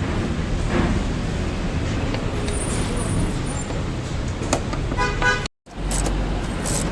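Steady road traffic noise passing the workshop, with a short horn toot about five seconds in. Just after the toot the sound cuts out for a moment.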